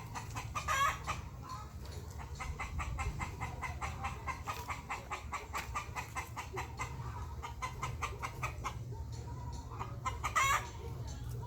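Domestic hens clucking in quick short notes, with two louder, wavering calls, one about a second in and one near the end.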